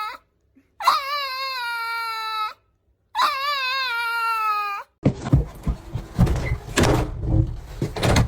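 A dog whining in three long, high, drawn-out cries, each about a second and a half with a wavering start, separated by short silences. After about five seconds, a jumble of knocks and rustling takes over.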